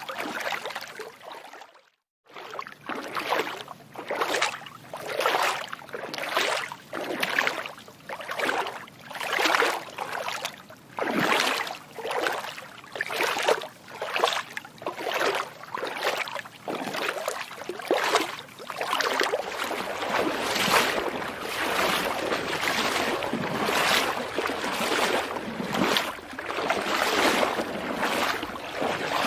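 Feet splashing through shallow water, one watery step about every second, with the sound cutting out briefly about two seconds in.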